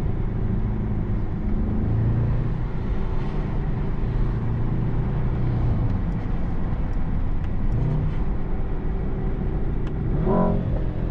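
Mercedes-AMG S63 E Performance's twin-turbo V8 running steadily under moderate load while driving, heard from the cabin together with tyre and road noise.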